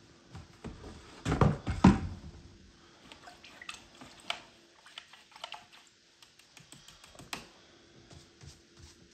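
Painting tools knocking and tapping at the easel: a quick cluster of loud knocks about a second in, then scattered light taps and clicks.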